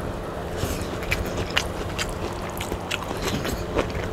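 Fried noodles sucked into the mouth with a brief slurp, then chewed with many wet, clicking mouth sounds.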